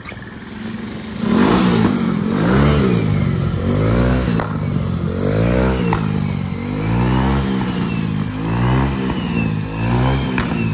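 Home-built moped's small engine cold-started about a second in, then revved up and down about seven times.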